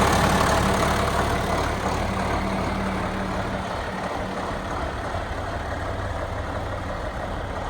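John Deere 4440 tractor's turbocharged six-cylinder diesel running steadily. It grows quieter over the first few seconds, then holds at an even idle-like level.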